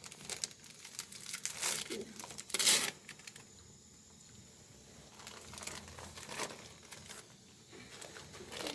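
Crinkling and rustling in several short bursts, loudest about two and a half seconds in, as of crinkly material being handled close by.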